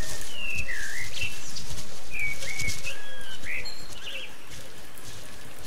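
Birds chirping, a string of short rising and falling whistled calls, over a steady low background noise.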